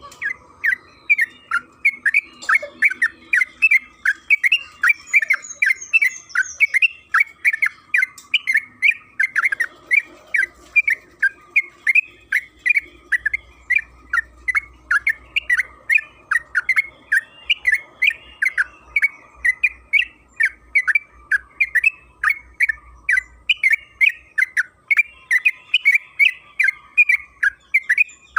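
Yellow-vented bulbul (trucukan) singing a long, unbroken run of quick chattering notes, about two to three a second.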